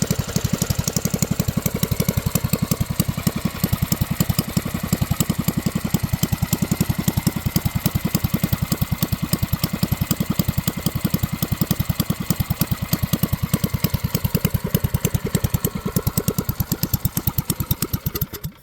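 Predator 212cc non-Hemi single-cylinder engine on a mini bike idling through a straight pipe, with a steady, rapid, even popping from the exhaust. It stops abruptly near the end.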